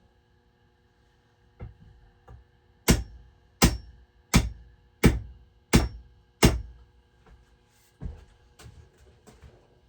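Hammer blows on an axe being hung on its wooden handle: two light knocks, then six loud, sharp strikes in a steady rhythm about 0.7 s apart, then a few lighter taps. The blows drive the axe head or its wedge home on the handle.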